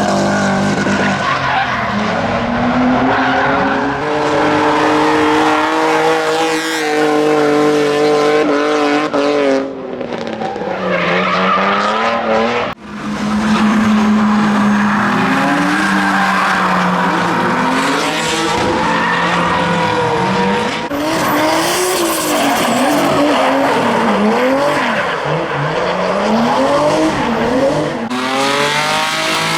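Drift cars' engines revving hard and being worked up and down on the throttle, the pitch rising and falling many times, over the hiss and squeal of tyres sliding sideways. There is a sudden break about thirteen seconds in.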